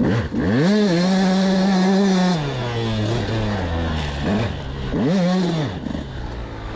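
KTM 200SX single-cylinder two-stroke dirt-bike engine under hard throttle. It revs up sharply, holds high for about two seconds, then drops off. A second, shorter rev-up comes about five seconds in before it falls back to lower revs.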